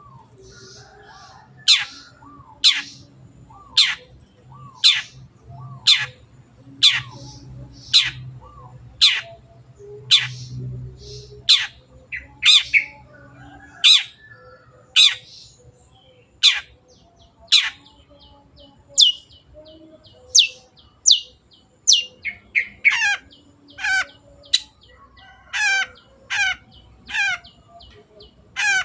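Long-tailed shrike (cendet) calling: a string of sharp notes that fall steeply in pitch, about one a second. From about two-thirds of the way in the notes come faster and turn buzzy and rattling.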